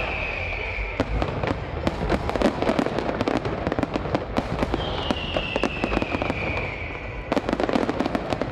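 Fireworks display: dense rapid bangs and crackling, with a high whistle sliding down in pitch at the start and again about five seconds in.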